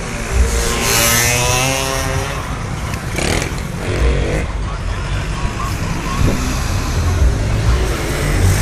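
Motorcycles running and revving on a street, one engine's note climbing and then falling as it passes about a second in, followed by more bikes going by.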